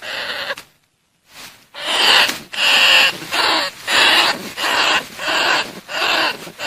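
Bandicoot rats squealing: a run of harsh, raspy squeals about twice a second, after one short squeal and a brief gap near the start. A recording played as a lure call to draw bandicoot rats in for trapping.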